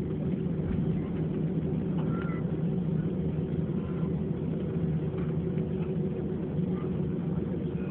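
Steady cabin noise of an Airbus A321 airliner: a constant engine hum over a low rumble.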